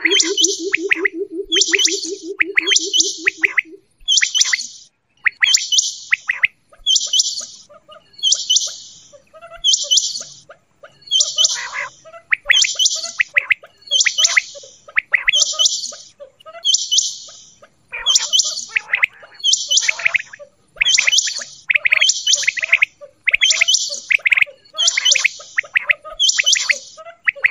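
Quail calling over and over, a short high call about once a second. A low, fast-pulsing tone runs under the calls and stops about four seconds in.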